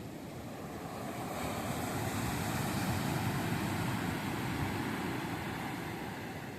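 Sea surf: a wave breaking and washing up the beach, the rush swelling about a second in and fading away toward the end.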